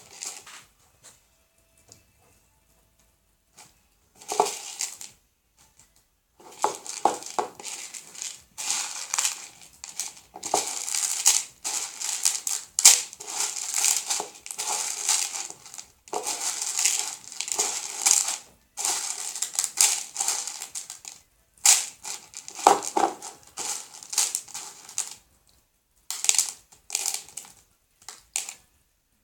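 Slime being kneaded and squeezed by hand: a long run of irregular squishing, crackling bursts with short pauses, starting about six seconds in and easing off near the end.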